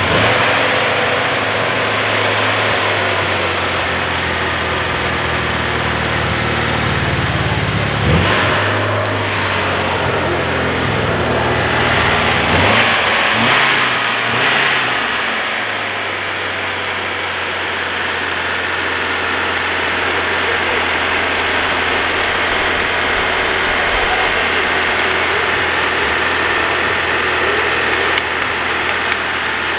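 Four-cylinder petrol engine of an off-road vehicle running with the hood open, blipped up in revs a few times in the first half, then settling to a steady idle.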